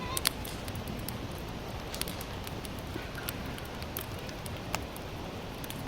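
Sawtooth oak firewood burning in a campfire, crackling steadily with scattered sharp pops, the loudest about a third of a second in.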